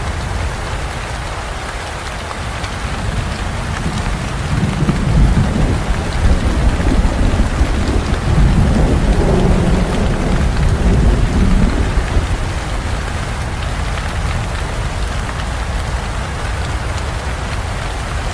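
Steady heavy rain with a long roll of thunder that builds about four seconds in, rumbles deeply for several seconds, then fades back under the rain.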